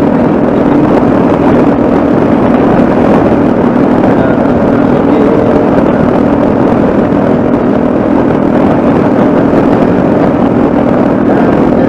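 Yamaha XT660Z Ténéré's single-cylinder four-stroke engine running steadily at an even pitch while the motorcycle cruises.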